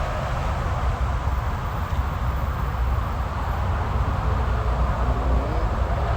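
Steady buzzing of a mass of honeybees around an open hive during a frame-by-frame inspection, with a low rumble underneath.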